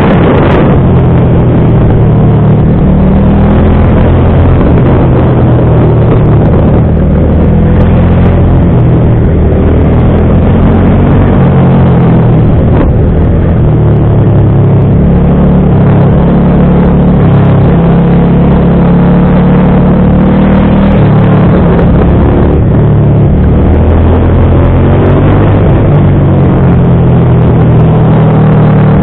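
Motorcycle engine running on the road, its speed rising and falling with throttle and gear changes.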